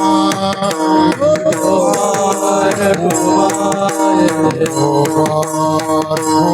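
Marathi devotional bhajan music: steady held instrumental notes under quick hand-drum and percussion strokes, with a singer's voice gliding through a wordless held phrase.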